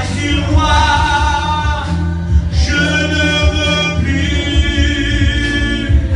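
Christian worship song sung with instrumental backing: several long, held vocal notes over a steady low bass.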